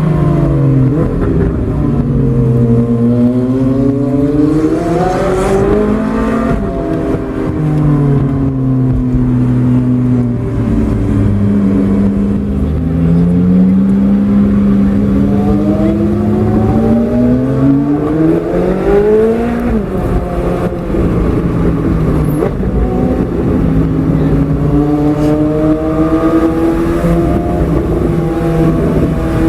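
Straight-piped Ferrari 458 Italia's 4.5-litre V8 running loud under hard driving. The revs climb for several seconds and then drop off sharply, twice, before holding fairly steady near the end.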